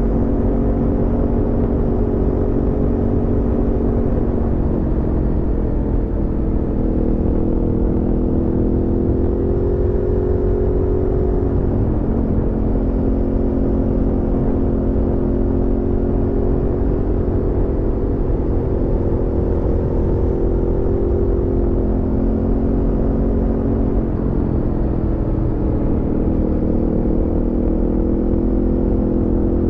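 Aprilia Tuono V4 motorcycle's V4 engine running under way at a steady cruise, heard from the bike. Its note shifts in pitch a few times, around 5 seconds in, near 12 seconds and again around 25 seconds, over a continuous low rumble.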